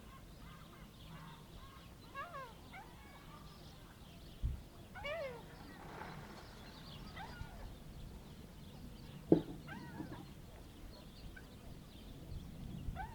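Seagulls calling in short series of mewing, falling cries, several times across the harbour. There is a low thump about four seconds in and a sharp knock about nine seconds in, the loudest sound, over a faint low hum.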